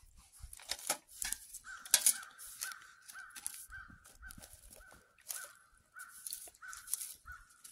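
A bird calling over and over, short calls about two a second, starting near two seconds in, over scattered clicks and rustles.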